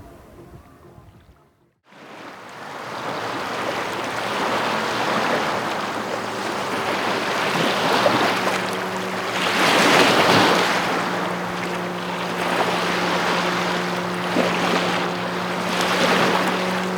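Waves washing onto the Issyk-Kul lakeshore, surging and ebbing in swells, with wind noise on the microphone. The sound cuts out briefly near the start, then comes back in; a low steady hum joins about eight seconds in.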